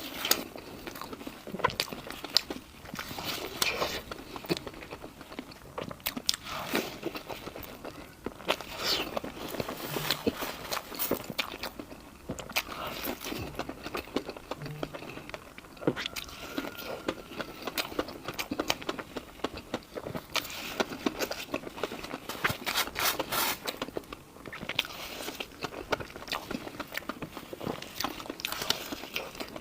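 Close-miked eating: a person biting and chewing food, with repeated crunches and clicks throughout.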